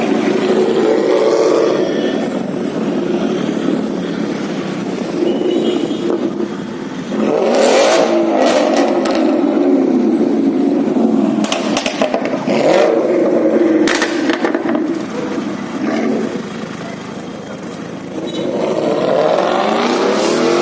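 Performance car engine running loud and revving, with sharp cracks from the exhaust several times in the middle. Near the end the engine note rises as it accelerates.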